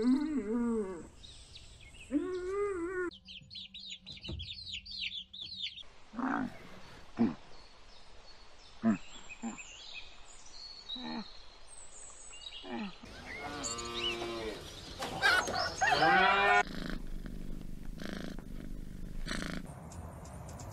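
Several animals calling in turn: a young cow's moo at the start, then a patch of high chirping, short calls spread through the middle, and the loudest long, pitched calls about two-thirds of the way through. Near the end it turns quieter.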